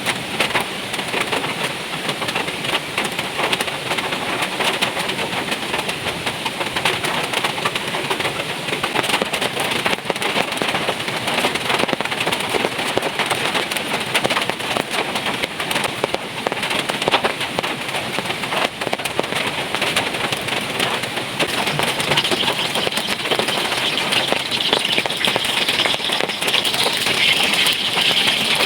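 Heavy rain falling steadily, a dense hiss full of sharp drop impacts that grows brighter and heavier near the end.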